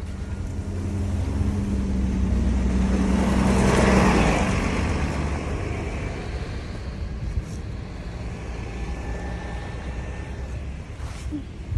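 A motor vehicle going by: engine hum and road noise build to a peak about four seconds in, then slowly fade.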